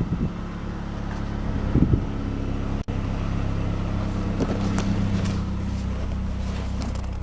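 A 2012 Mazdaspeed3's 2.3-litre turbocharged four-cylinder engine idling steadily, with a brief dropout in the sound near the middle.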